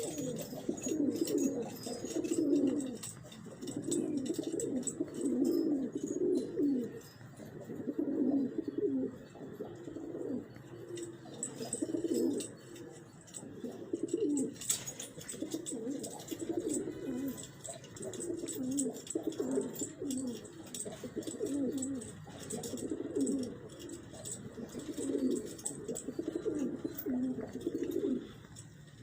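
Domestic pigeons cooing in low, repeated phrases, one after another with short gaps.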